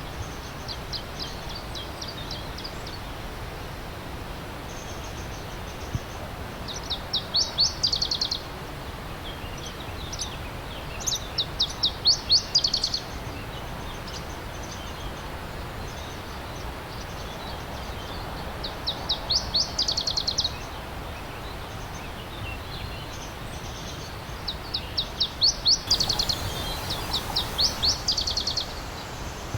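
A songbird singing short, rapid trilled phrases every few seconds over a steady rush of stream water.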